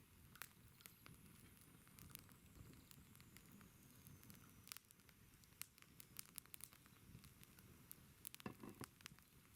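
Wood campfire crackling quietly, with irregular small pops and snaps and a quick cluster of them near the end.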